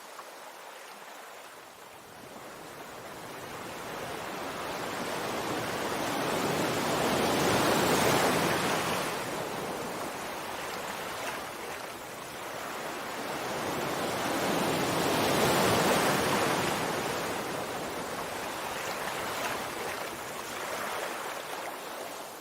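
Sea waves washing onto the shore: a steady rushing that swells and fades, with two big surges about eight and fifteen seconds in.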